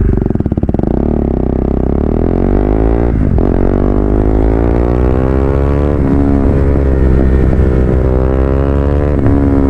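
KTM Duke 390 single-cylinder engine through a loud exhaust, accelerating hard through the gears. Its pitch climbs, then drops at quick-shifter upshifts about three, six and nine seconds in.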